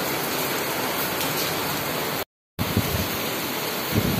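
Heavy rain pouring down steadily, a dense even hiss of downpour. It cuts out for a moment a little past halfway, then comes back.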